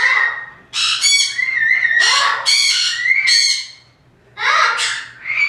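A parrot squawking: four loud, harsh calls in a row with short breaks between them.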